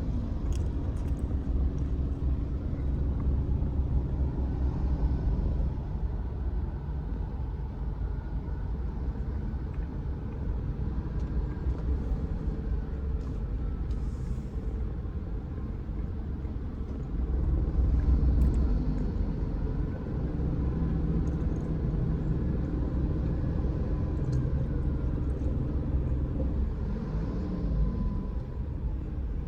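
Steady low rumble of a car on the move, its engine note rising and falling a little, with a louder swell about two-thirds of the way through.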